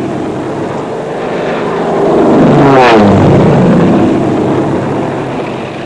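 Propeller airplane flying low overhead. Its engine note builds, is loudest about three seconds in, then drops in pitch as it passes and fades away.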